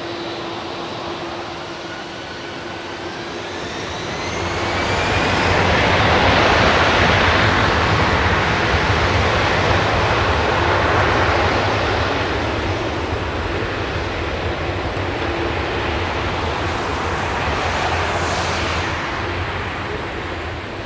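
Airbus A340-300's four CFM56 jet engines at takeoff power: a rising whine in the first few seconds, then the roar swells to its loudest about six seconds in and holds steady, with a second brief swell and a falling whine near the end as the airliner passes.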